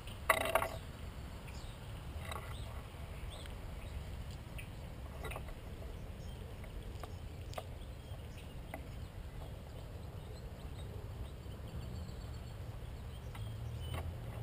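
Birds at a feeder: one louder knock about half a second in, then a few scattered light taps and clicks, over a low steady rumble.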